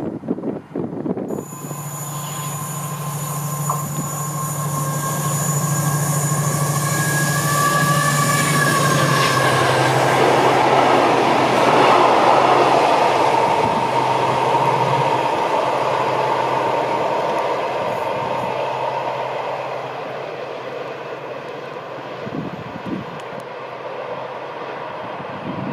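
A train passing through the station. Its steady whining tones drop in pitch about nine seconds in as it goes by, and the wheel and rail noise is loudest a few seconds later before it fades away.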